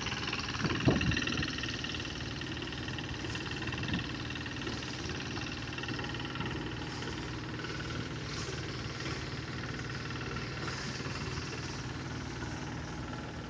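Engine of a semi-modern rice harvesting "blower" machine running steadily, with a sharp knock about a second in.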